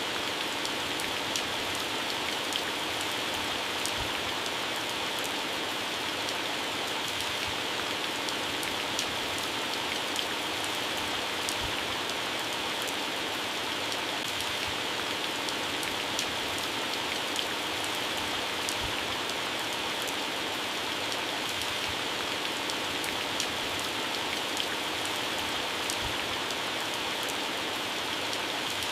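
Heavy rain falling on plants and grass: a steady dense hiss of rain with many sharp individual drop ticks on leaves and an occasional heavier drop thud.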